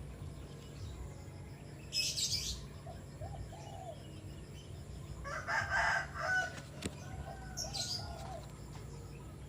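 Small sunbird giving short, high-pitched chirps about two seconds in and again near the end, with a busier burst of calls around the middle and faint lower whistled bird calls behind.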